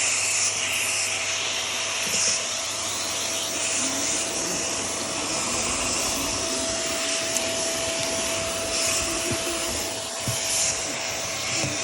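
Vax Airmax Stretch vacuum cleaner running steadily while the hand tool is used: rushing air with a constant motor whine, and a few brief knocks as the tool is moved.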